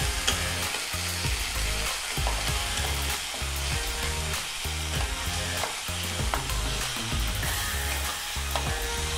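Onions with garlic and ginger paste sizzling in hot oil in a kadhai, stirred and scraped with a spatula, with small scraping clicks throughout. A low, pulsing drone runs underneath.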